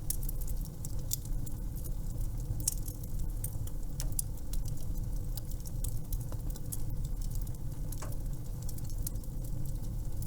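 Wood fire crackling in a fireplace: irregular sharp crackles and pops over a low steady rumble.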